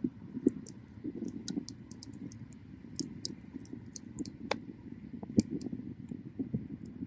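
Wood bonfire crackling, with irregular sharp pops over a low, steady rush of flame; the loudest pops come near the start and about two-thirds of the way in.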